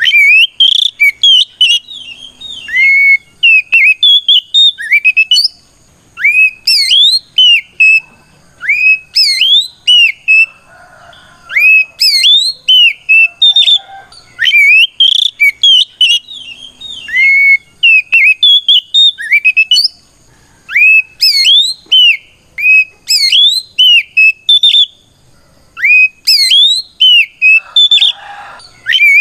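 Oriental magpie-robin (kacer) singing a loud, fast song of clear whistled notes that sweep sharply up and down, in phrases a second or two long broken by short pauses. It is a challenge song, calling out a rival male.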